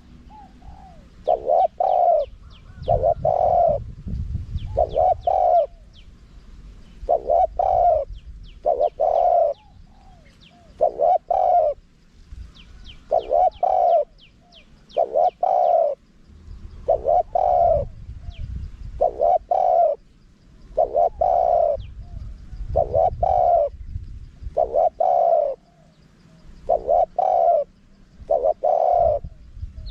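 A spotted dove singing its cooing song, a short coo phrase repeated about every two seconds, with faint chirps of small birds higher up.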